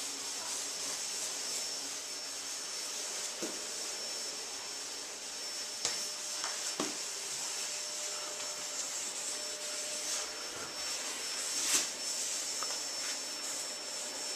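Steady hiss of a running machine with a faint high whine, broken by a few light knocks.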